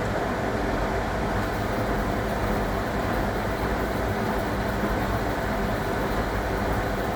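1961 AEG Lavamat Noris front-loading washing machine running steadily: a continuous, even mechanical noise with several steady tones.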